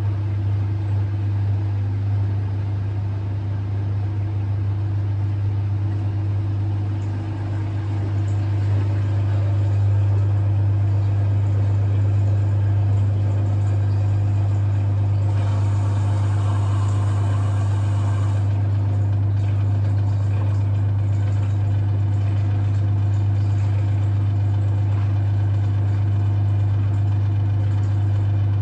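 LG F1222TD washing machine's drain pump running with a steady, loud hum. A rush of noise joins it for about three seconds in the middle.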